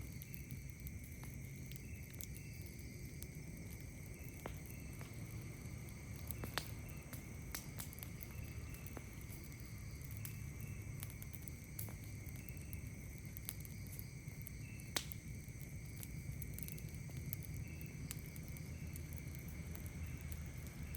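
Campfire crackling with sparse sharp pops, the loudest about six and a half and fifteen seconds in, over a steady high drone of night insects with short chirps repeating at irregular intervals.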